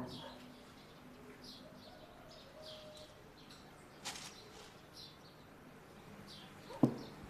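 Small birds chirping in short, high, repeated downward chirps, with a faint click about four seconds in and a sharper knock near the end.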